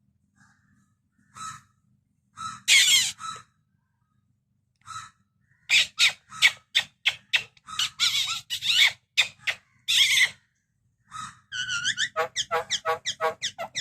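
Crow calling: a few separate short calls, then from about six seconds a fast string of harsh calls, and near the end a quick run of short pitched notes.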